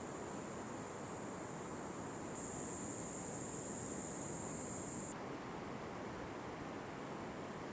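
Outdoor ambience: a steady wash of hiss with a high, thin buzz that gets much louder about two and a half seconds in and drops back abruptly near five seconds.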